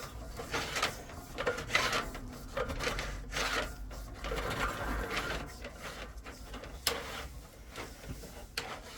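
Drain inspection camera's push-rod cable being fed along the pipe, an irregular rubbing and scraping with occasional sharp clicks, one louder click about seven seconds in.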